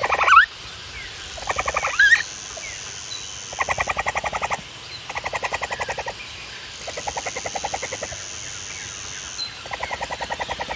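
Capybara calling in about five short bouts of rapid clicking chatter, each lasting about a second, with a steady high-pitched hum running behind in two stretches.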